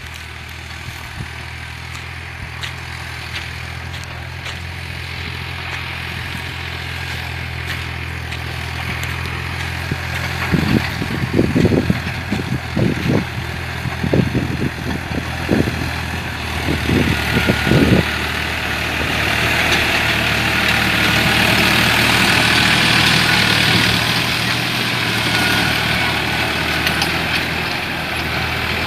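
Tractor engine of a 49 hp, 2700 cc New Holland running steadily under load while pulling a six-disc plough. Partway through comes a run of dull thumps. After that, a louder hiss builds and holds to the end.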